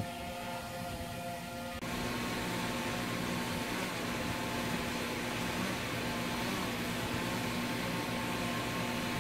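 Multirotor drone's propellers whining steadily. About two seconds in the sound changes abruptly to a louder, steady hiss with a low hum.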